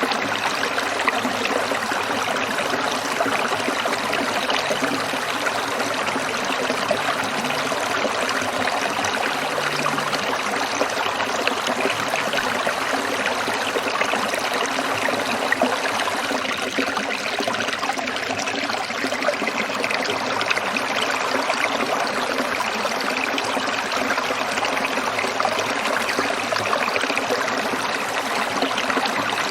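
A small stream trickling and splashing over stones in a steady, continuous babble of running water.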